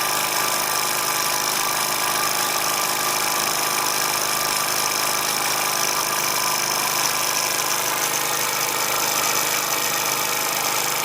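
Bowman M140 model steam engine running steadily and fast on compressed air, its exhaust giving a steady hiss.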